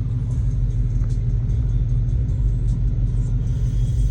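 Dodge Hellcat's supercharged 6.2-litre HEMI V8 idling with a steady, deep low rumble.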